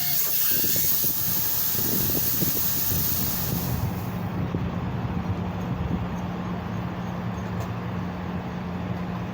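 Pressurised gas hissing out of the refrigeration lines as the system is flushed clean during a compressor replacement; the hiss cuts off about four seconds in, leaving a steady low hum.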